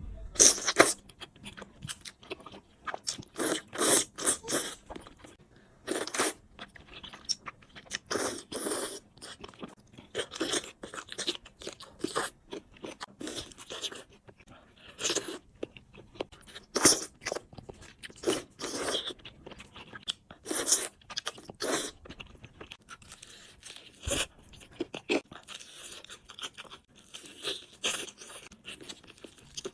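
Person eating a whole chicken, with crunchy bites and chewing coming in irregular bursts every second or two.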